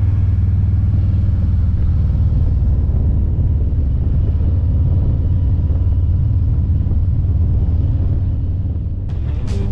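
Steady low rumble of a motorcycle riding at speed, engine and wind noise together. Rock music with a beat comes in near the end.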